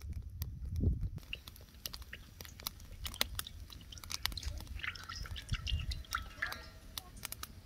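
Close-up chewing and crunching of crisp food: irregular sharp crunches and clicks over a low rumble.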